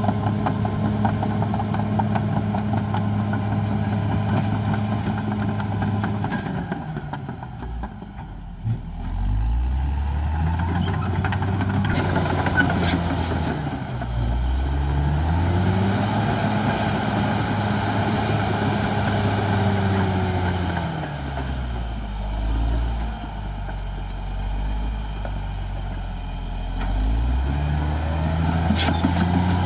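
CAT D6R XL bulldozer's diesel engine working. Its pitch falls and rises several times as the revs drop and pick up again. A few sharp metallic clanks come about twelve seconds in.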